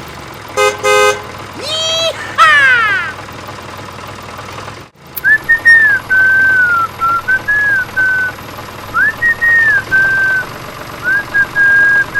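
A whistled tune: a single clear pitch stepping and sliding between a few notes. Before it come two short squeaks and a quick pair of sliding cartoon-like pitch sweeps, then a brief break.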